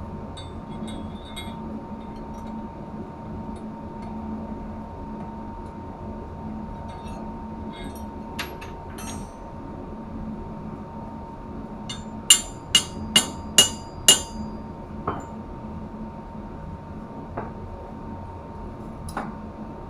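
A hammer striking metal: five sharp, ringing blows in quick succession about twelve seconds in, then a few single knocks, over a steady machinery hum with a constant tone.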